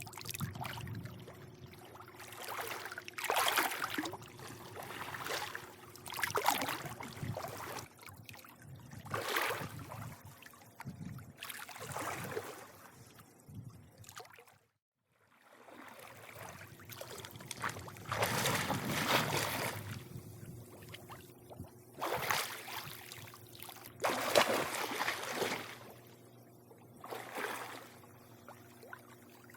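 Swimming-pool water lapping and sloshing in irregular surges every second or two, over a faint steady hum. The sound cuts out for about a second near the middle.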